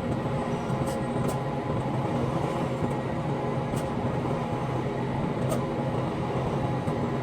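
Semi-truck diesel engine running steadily with a constant drone inside the cab, with a few light clicks.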